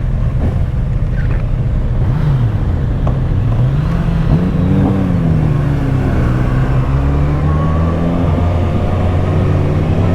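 Kawasaki Ninja ZX-6R's 636 cc inline-four running at moderate revs while riding, still quiet, its note rising about four to five seconds in, falling back, then climbing again near the end. A steady low rush runs beneath it.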